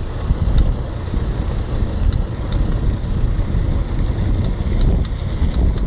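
Ford Fiesta 1.6 on the move: steady road and wind rumble with a sharp click at irregular intervals, about every half second to a second and a half. The owner places the clicking at the right rear wheel and tyre, and a mechanic has not found its cause.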